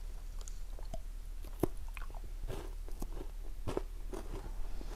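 Someone biting and chewing a chocolate-coated KitKat wafer finger: crisp crunches of the wafer, with two sharper cracks, one about a second and a half in and one near four seconds, and softer chewing between.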